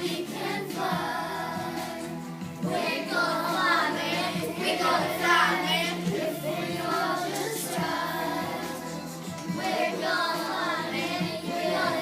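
A group of children singing together over a recorded backing music track.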